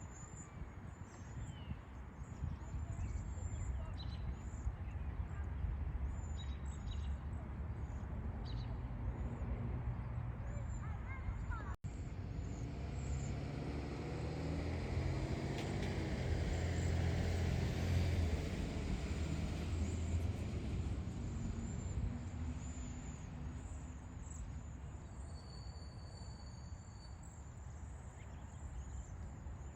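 A motor vehicle passing, its sound building up over several seconds and then fading away. Low wind rumble on the microphone runs under it, with high, thin chirps near the start and again near the end.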